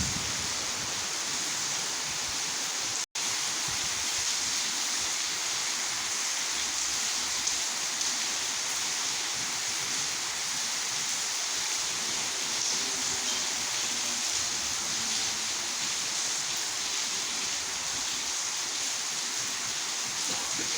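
Torrential rain pouring down steadily, with a brief cut to silence about three seconds in.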